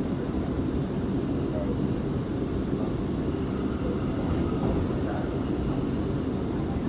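Steady low rumble of a subway train and its underground surroundings, even in level, with no single event standing out.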